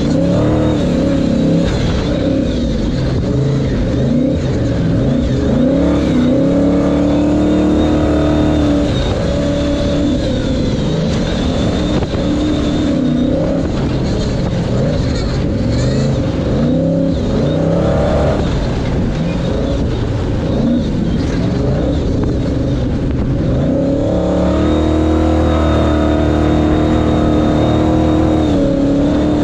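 Ford Ranger pre-runner race truck heard from on board, its engine revving up and dropping back again and again as it accelerates, shifts and lifts around the course, with a thin high whine at times.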